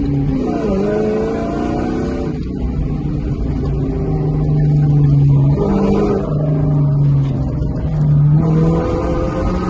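Car engine running hard on a track run, its pitch climbing and dropping back a few times as it revs.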